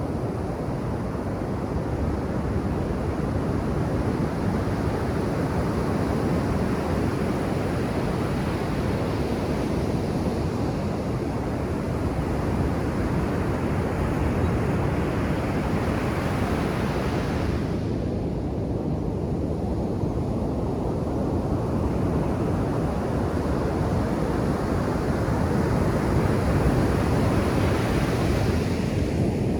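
Ocean surf breaking and washing up a beach, a continuous rushing wash; the hiss thins out abruptly about two-thirds of the way through, then builds again as the next wave comes in.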